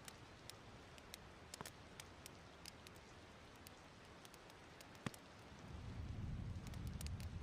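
Wood fire crackling softly in a fireplace: scattered sharp pops and snaps over a faint steady hiss, with one louder pop about five seconds in and a low rumble swelling up near the end.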